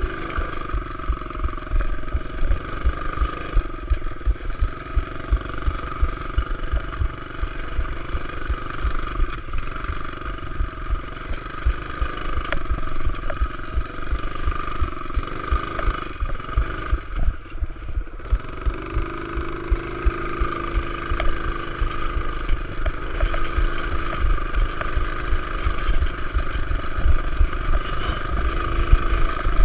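Pit bike engine running as the bike is ridden, its firing a rapid low pulsing. The engine eases off briefly a little past halfway, then picks up again.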